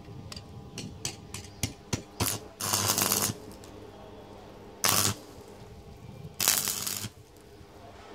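Three short bursts of electric arc welding crackle, about half a second each, as tack welds join two exhaust pipe sections. The tacks follow a run of light metal clicks, with a steady low welder hum underneath.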